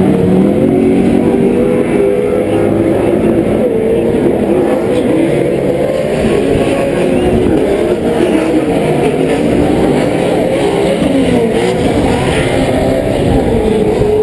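PRO 4 off-road race trucks' V8 engines running and revving on the track, several engine notes rising and falling over one another.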